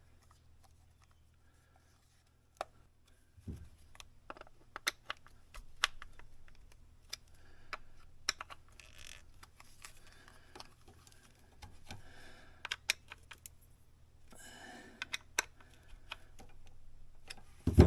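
Irregular light clicks and taps of small hard plastic parts being handled and fitted by hand, over a faint steady low hum, with a louder knock near the end.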